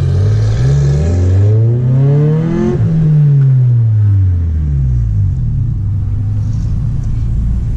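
A car engine revving: a brief rise, then one long climb in pitch to a peak about three seconds in and a steady fall over the next two seconds, over a constant low engine rumble.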